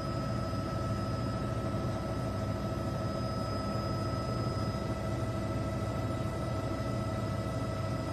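Steady mechanical drone: a low rumble with several constant whining tones over it, unchanging throughout.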